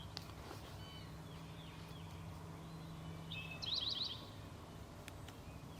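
Songbird calls: a quick burst of four or five high, rising notes about three and a half seconds in, with fainter high chirps a second or two earlier, over a steady low background hum.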